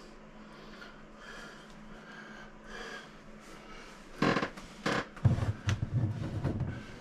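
Faint breathing, then from about four seconds in a run of bumps, rustles and knocks: hands groping for a water line and its connector behind an RV toilet.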